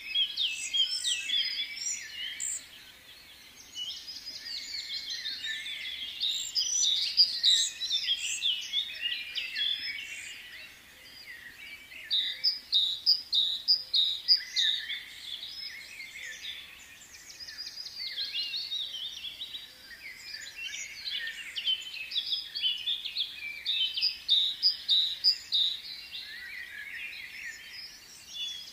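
Birds chirping and twittering, many quick overlapping calls in bouts with brief lulls between them.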